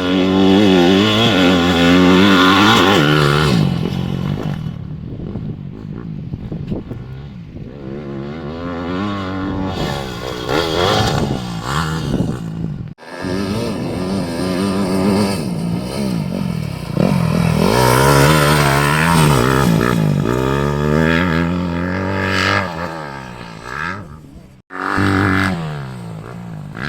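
Yamaha YZ250F motocross bike's 250cc four-stroke single-cylinder engine revving hard and easing off again and again as it is ridden, its pitch repeatedly climbing and falling with throttle and gear changes. The sound breaks off sharply twice.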